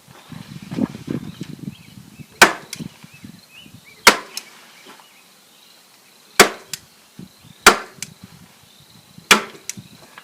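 Hand staple gun firing five times, driving staples into the wooden frame: sharp single cracks a second or two apart, each trailed by a small click. Some rustling of handling comes just before the first shot.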